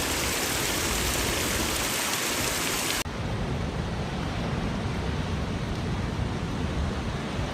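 Rain falling: a loud, even hiss that cuts off abruptly about three seconds in and gives way to a quieter, duller rain sound.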